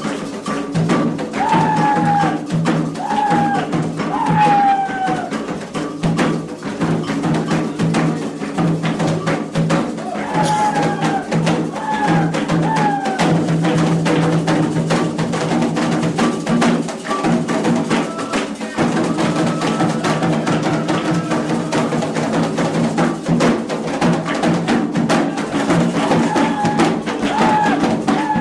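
Candomblé ceremonial music: atabaque hand drums beating a steady dense rhythm with a chorus of voices chanting over it. Short high pitched notes come in groups of three a few times.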